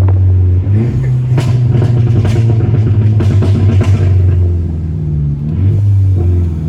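Turbocharged 2.0-litre four-cylinder of a tuned Mk6 VW GTI under way, its pitch climbing about a second in and again near the end. A run of sharp exhaust pops and crackles in the middle comes from a tune set up to make them.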